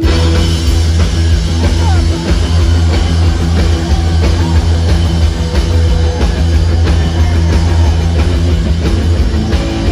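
Post-punk rock band playing live at full volume: drums, bass and guitars all come in together abruptly at the start and drive on steadily.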